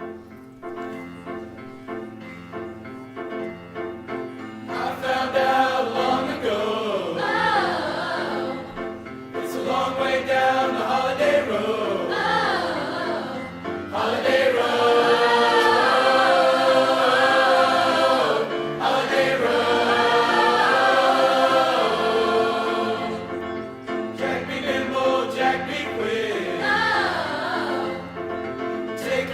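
A small high school choral ensemble singing a Christmas song. It opens softly, the voices come in fuller about five seconds in, and the singing grows louder from about fourteen seconds.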